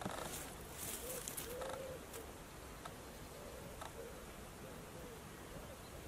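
A bird cooing or hooting: a few short, soft, low arched notes, over a steady hiss, with a few faint ticks.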